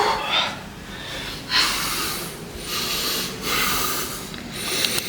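A person breathing hard through a weight-training set: forceful, noisy exhales repeating about every second or so.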